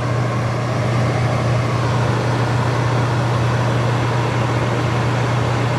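Kitchen appliance fan running steadily with a constant low hum and airy rush.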